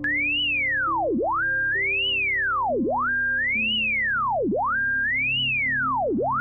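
Synthesized pure tone whose pitch follows a rider's height as it circles a custom shape. It sweeps up in an arch to a high peak, drops steeply to a low pitch, climbs back and holds briefly at a middle pitch before rising again, repeating about four times. Quieter background music runs underneath.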